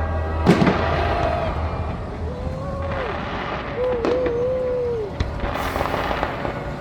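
Fireworks bursting overhead: two sharp bangs, one about half a second in and another about four seconds in, then a crackling hiss near the end.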